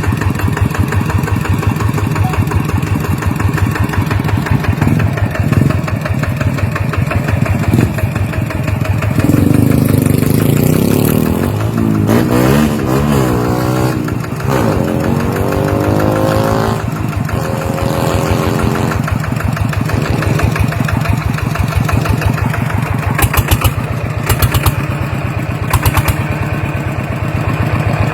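Walking tractor's engine running at idle with a steady firing beat. Around the middle it is revved up and back down a few times, then it settles back to idle.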